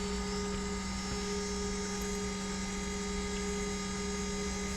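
EMD WDP4B locomotive's two-stroke V16 diesel engine running at a steady idle: an even, unchanging hum with a strong low drone.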